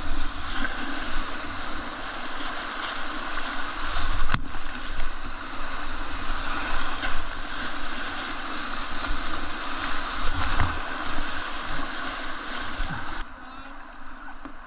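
Loud, steady rush of river whitewater around a kayak, with one sharp knock about four seconds in; the rush drops off abruptly near the end.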